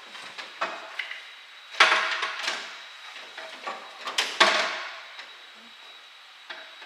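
Hard knocks and clatter of parts and tools being handled during a fitting job, a string of small knocks with two louder clattering clanks, about two seconds in and again about four and a half seconds in.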